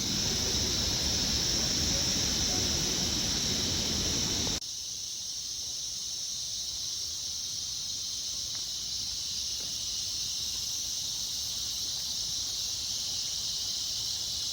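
Steady, high-pitched insect chorus buzzing without a break. For the first third a low rumble of wind or handling noise lies under it and cuts off abruptly.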